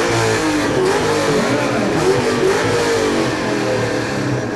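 Ford Mustang engine revved over and over through its exhaust, the pitch climbing and dropping several times in quick succession.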